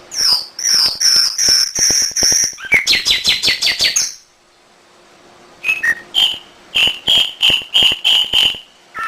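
Domestic canary singing in phrases of repeated notes. A run of high notes turns into a fast trill, then after a pause of about a second and a half comes a slower series of lower repeated notes, about two a second.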